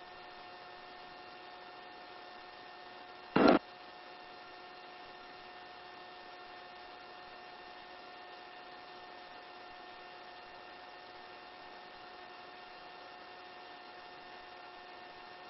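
Steady electrical hum with several even, fixed tones under a light hiss, typical of a helicopter headset intercom feed. It is broken once, about three and a half seconds in, by a short loud burst of noise like a radio key click.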